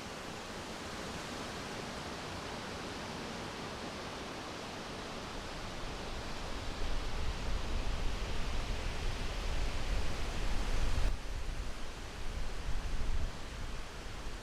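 Steady wind noise that builds into gusts about halfway through, with a low rumble and an uneven, surging loudness, then eases off near the end.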